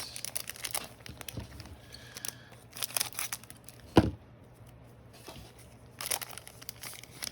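Foil trading card pack being torn open and crinkled, in several rustling bursts, with one sharp knock about four seconds in.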